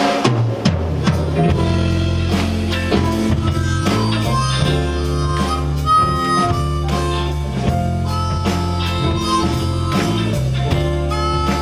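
Live band playing the opening of a soul song, with a steady drum beat under sustained melody notes.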